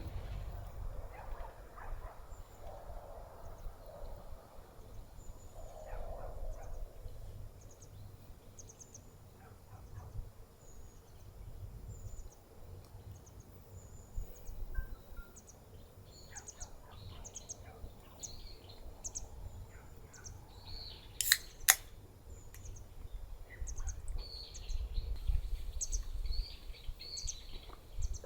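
Small birds chirping outdoors, with short high calls repeating throughout. About three-quarters of the way through come two sharp snaps in quick succession, the loudest sounds. A low rumble runs underneath.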